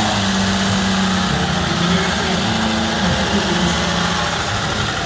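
Vintage car's engine idling with a steady low hum as the open tourer creeps forward at walking pace.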